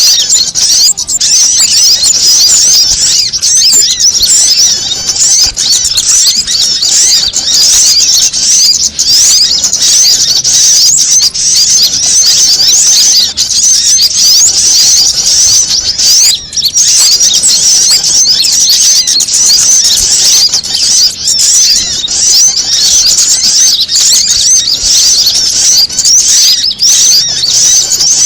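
Frantic, dense chattering of several small songbirds layered together: a bird-lure recording mixing prenjak, female sogon, kamande and sunbird (kolibri manggar) calls. The high-pitched chirps run thick and unbroken, with one short gap about sixteen seconds in.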